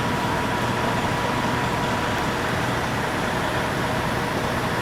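Steady engine noise from idling vehicles, an even rumble with a low hum and a thin high whine.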